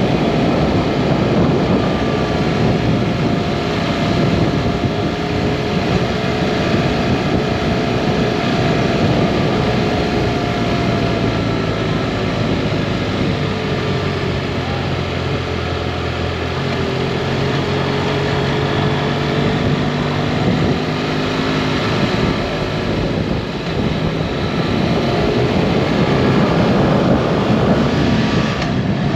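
Motorcycle engine, a BMW F800GT parallel twin, running at road speed under heavy wind noise. Its pitch sinks as the bike slows through the middle, then climbs again near the end as it speeds back up.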